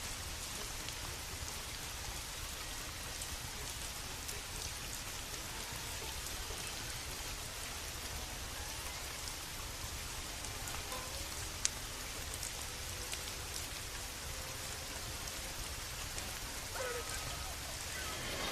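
Steady rain falling, an even hiss of drops, with a single sharp click about two-thirds of the way through and a faint wavering sound near the end.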